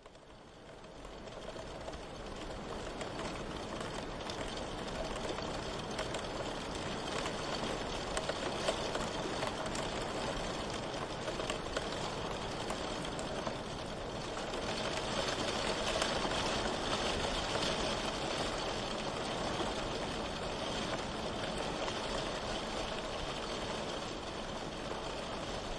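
Steady rain, fading in over the first couple of seconds, then falling evenly.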